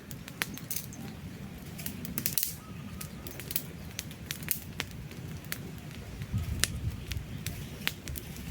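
Campfire logs burning, with irregular sharp crackles and pops over a steady low rumble of flame; the rumble grows stronger about six seconds in.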